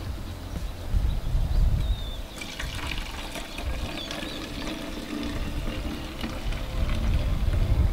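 Water being poured into a plastic spray bottle, filling it up.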